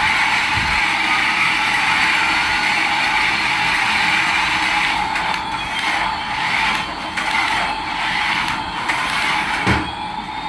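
Small electric motor and plastic gears of a remote-control toy whirring steadily, with a short thump near the end.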